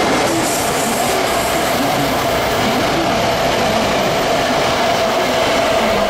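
JR EF65 electric locomotive and a towed rake of new Tokyo Metro 2000 series cars passing close by. Wheels rumble steadily on the rails, with a steady tone running through the noise.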